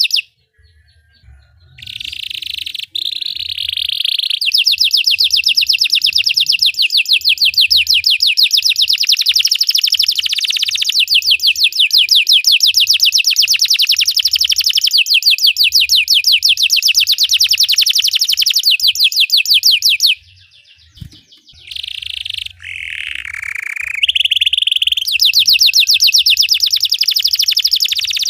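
Belgian canary singing: after a brief pause the song starts, running into a long, fast trill of rapidly repeated high notes. Near twenty seconds in it breaks off for a few short phrases, then goes into another fast trill near the end.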